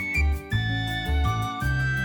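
Background music: an instrumental track with a steady beat, a melody carried in clear held notes over a pulsing bass line.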